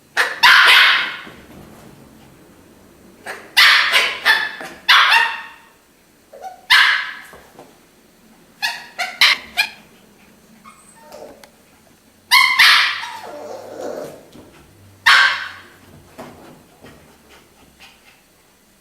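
Jack Russell terrier barking loudly in several short volleys, single barks and quick runs of two to four, with pauses of a second or more between.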